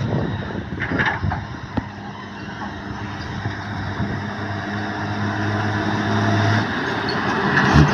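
A truck engine running with a steady hum that grows louder over several seconds, with wind noise on the microphone at the start and a thump near the end.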